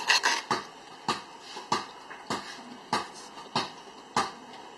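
Hammer blows, a steady run of sharp strikes about one every 0.6 seconds, knocking at a stuck drive axle on a Honda Civic.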